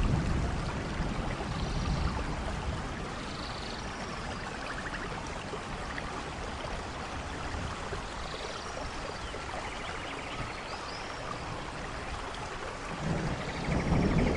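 Steady rain falling in a forest. A low rumble of thunder fades out in the first second or two and builds again near the end. A few faint, short high chirps sound over the rain.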